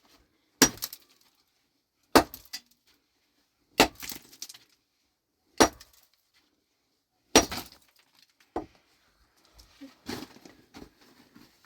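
Five sharp, heavy strikes of a hand tool on hard material, roughly one every one and a half to two seconds, each with a brief clinking ring. Smaller scattered knocks follow near the end.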